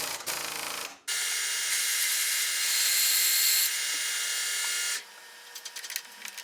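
A 21/64-inch drill bit cutting into a cast aluminum timpani pedal, enlarging the hole for a thread insert. The steady cutting noise starts about a second in and stops at about five seconds, followed by a few light clicks.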